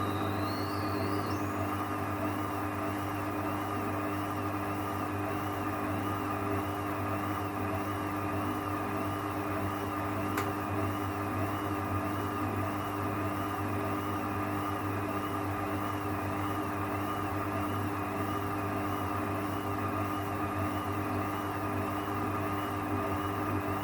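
1994 Ocean washing machine on its first interim spin with an unevenly balanced load: a steady motor hum with a slight, even wavering about once a second.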